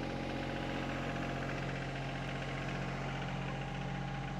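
SANY compact excavator's diesel engine idling steadily, with an even, unchanging pitch.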